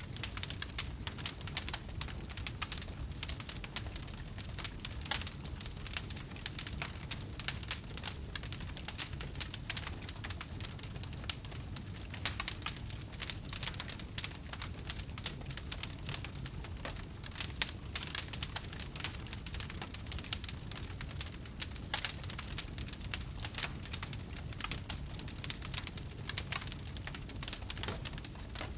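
Wood bonfire burning: dense, irregular crackling and popping of the burning wood over a steady low rumble.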